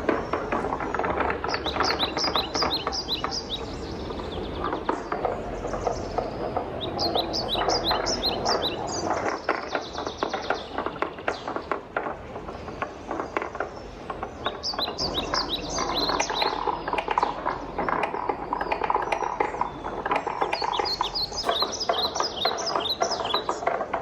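Wooden balls rolling and clacking down a wooden marble run track: a dense, continuous patter of light knocks. Groups of short, high chirp-like notes recur every few seconds.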